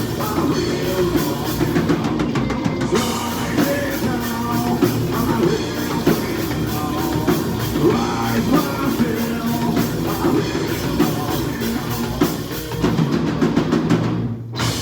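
Metalcore band playing live: drum kit and heavy rock instruments throughout. Near the end the song breaks off and a last hit starts to ring out.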